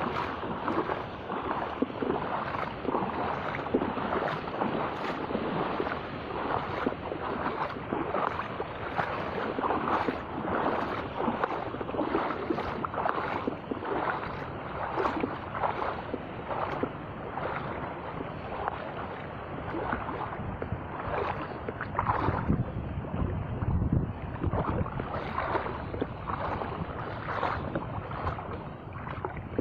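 Surf washing in heavy waves, with wind buffeting the microphone. Short sharp splashes or knocks recur about once a second, and a deeper rumble of surf swells about three-quarters of the way through.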